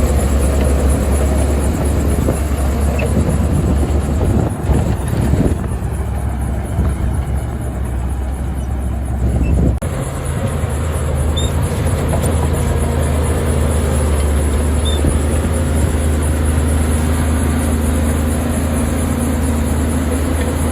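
Heavy earth-moving machine's diesel engine running loud and steady. A rougher, noisier working stretch sets in about five seconds in and cuts back sharply around ten seconds in.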